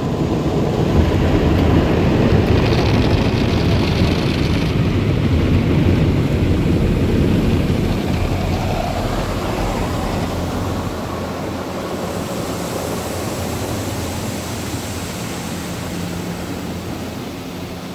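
Automatic brush car wash machinery running with a loud, steady rushing roar that fades slowly over the last several seconds.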